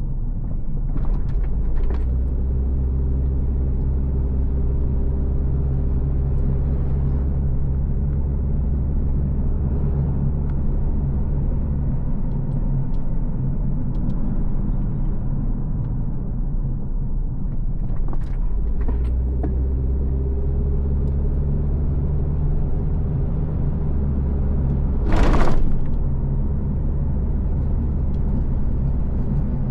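A car being driven along a road: a steady low engine and road rumble whose pitch shifts several times as it speeds up and slows. A few faint knocks sound through it, and near the end there is one brief, loud rush of noise.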